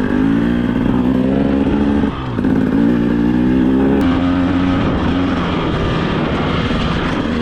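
The two-stroke single-cylinder engine of a new 2025 GasGas EC 300 dirt bike running under moderate throttle while being ridden in its break-in period. It holds a steady pitch, eases off briefly about two seconds in, then pulls again.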